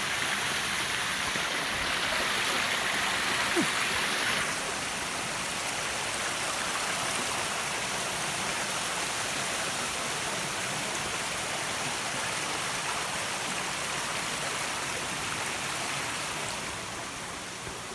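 Rushing water of the Agura waterfalls and their mountain stream, a steady hiss that drops a little in level about four seconds in and again near the end.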